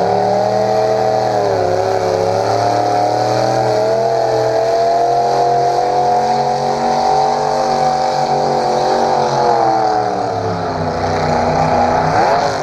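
Pulling tractor's 327-cubic-inch V8 held at high revs under full load while dragging the weight sled. The pitch dips briefly about two seconds in, holds steady, then sags and backs off near the end.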